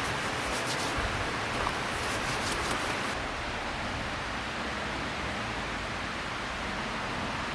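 Steady rushing of a flowing mountain river, with a few faint high ticks during the first three seconds.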